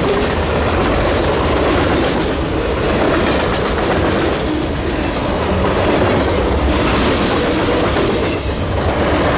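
Freight train rolling past, its steel wheels clattering over the rail joints in a steady, loud rumble.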